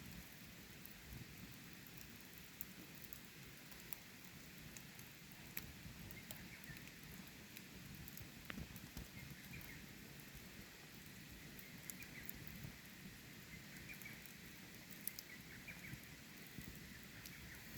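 Faint wood campfire crackling, with scattered sharp pops over the steady rush of flowing water.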